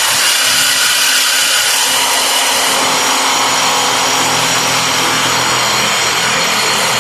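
Simba S7D long-hole drill rig's rock drill drilling through rock on T-38 rods with a 64 mm bit: a loud, steady, dense noise that starts abruptly and holds unchanged.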